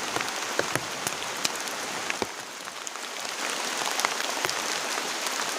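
Heavy rain: a steady hiss of falling rain with many sharp ticks of single drops striking close by.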